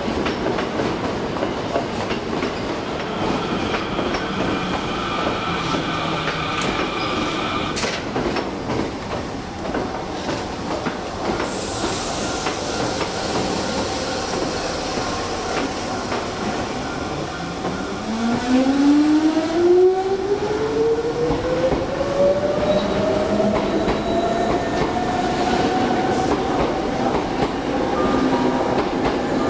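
Hankyu 3300-series commuter train pulling out of the station. Its traction motors give a whine that climbs steadily in pitch from about halfway through as it gathers speed, over the rumble and clatter of the wheels.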